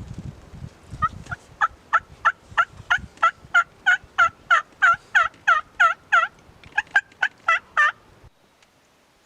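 Turkey yelping: a long run of short, evenly spaced yelps, about three a second, with a short break near the end and then a few more before it cuts off suddenly. A low rumble of handling or wind sits under the first few seconds.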